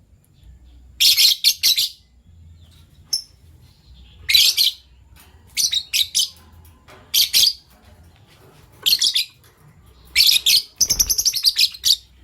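Fischer's lovebirds chirping in short, shrill bursts about every one to two seconds, with a longer, denser run of chirps near the end.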